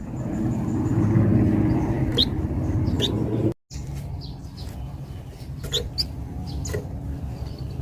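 Flamboyan songbird giving a handful of short, high chirps, scattered a second or so apart, over a steady low rumble. The sound drops out completely for a moment about three and a half seconds in.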